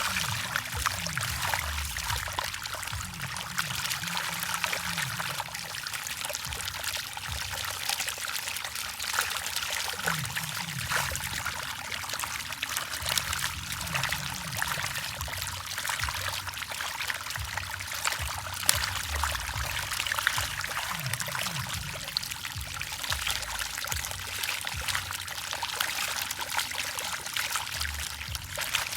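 Continuous splashing and trickling water, dense with small sharp splashes, as many fish feed at the water's surface.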